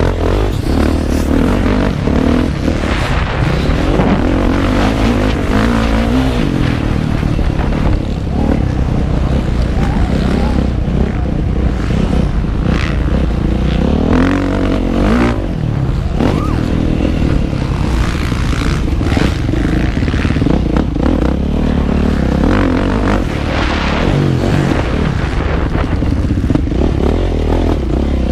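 Motocross motorcycle engine being ridden hard, its revs climbing and dropping again and again as the rider accelerates and backs off, heard up close from the rider's position.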